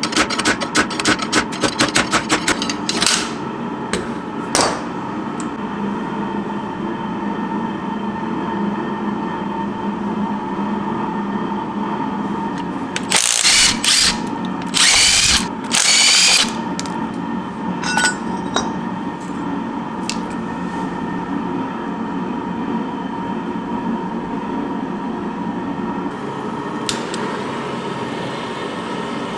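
A quick run of hammer blows at the start, then a steady hum, then three or four short, loud bursts of a power tool about halfway through, during the taking apart of a rusted rear suspension.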